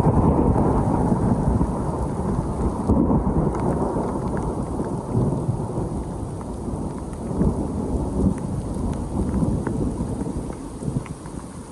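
Rolling thunder with rain falling, the low rumble slowly dying away, with scattered drops ticking.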